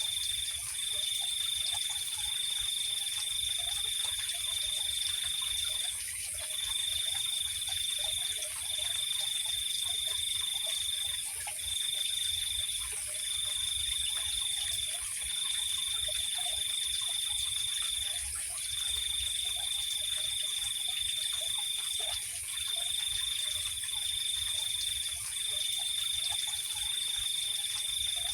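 Night insect chorus: a cricket's high, steady trill that breaks off briefly every few seconds, over a higher continuous insect hiss.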